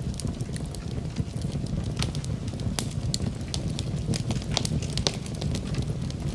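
Wood fire crackling in a fireplace: sharp, irregular pops and snaps, several a second, over a steady low rumble.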